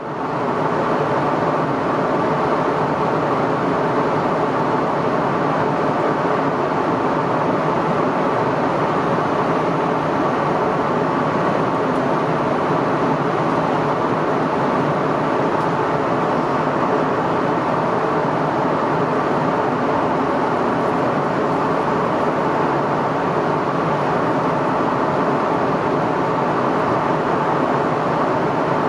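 Steady cabin noise of an Airbus A320neo in flight: an even rushing hum of airflow and its Pratt & Whitney PW1127G geared turbofan engines, with faint steady tones in it.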